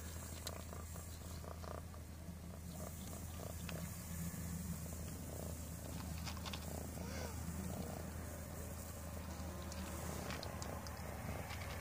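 Cats eating cat food from one shared bowl: irregular chewing and crunching clicks over a steady low purring.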